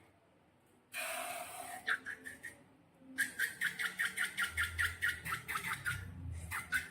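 Slime being squished and worked by hand, giving a rapid run of wet clicking squelches, about four a second, after a short hiss about a second in.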